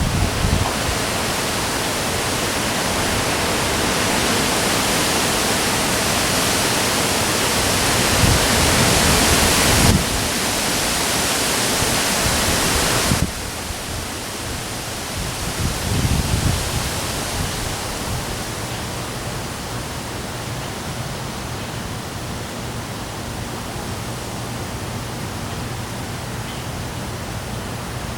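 Heavy rain pouring steadily with gusts of wind buffeting the microphone. The rain noise drops off suddenly about thirteen seconds in, leaving a quieter steady hiss.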